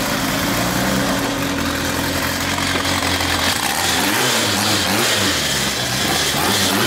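Drag car's engine running steadily, then from about three and a half seconds in revved up and down over and over.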